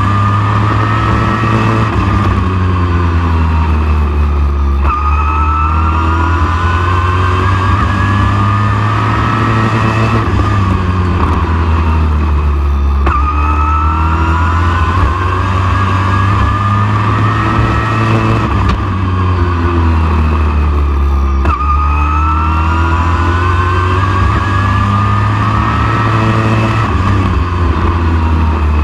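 Super truck's V8 race engine at racing speed on a short oval: the pitch climbs under full throttle down each straightaway, then drops as it lifts for the turns, about every eight seconds. A heavy low rumble runs underneath throughout.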